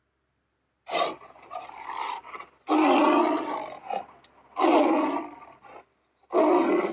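Tiger roar and snarl sound effects for a tiger character: after about a second of silence, four harsh roars, each about a second long, with short gaps between them.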